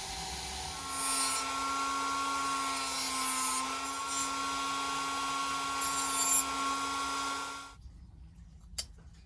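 Small high-speed rotary power tool whining steadily, its pitch dipping briefly as it takes load, with scratchy bursts as it bites into the work; it cuts off suddenly near the end.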